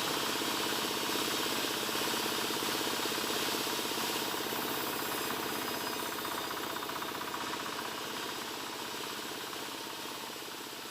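Motor-driven wood saw running steadily while sawing albasia wood, a fast even rattle over an engine hum, slowly growing quieter toward the end.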